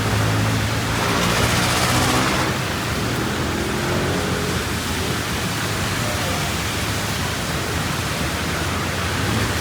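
Heavy rain falling in a steady hiss, with a motor vehicle's engine humming underneath; the hiss swells for a second or so about a second in.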